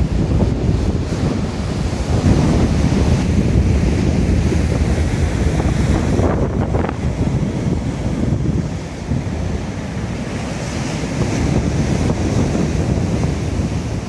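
Strong gusting wind buffeting the microphone with a heavy rumble, over the wash of rough sea breaking on the shore.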